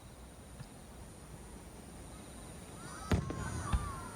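Fireworks bursting: a faint pop about half a second in, then two sharp loud bangs a little after three seconds, about half a second apart.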